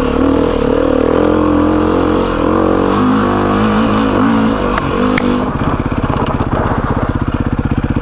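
Dirt bike engine running with the revs rising and falling, then settling into a steady, even low chugging from about five and a half seconds in.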